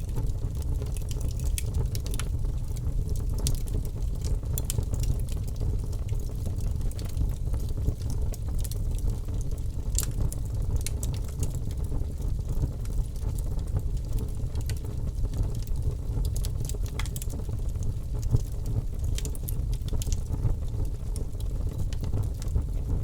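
Wood fire burning: a steady low rumble with sharp crackles and pops scattered irregularly throughout.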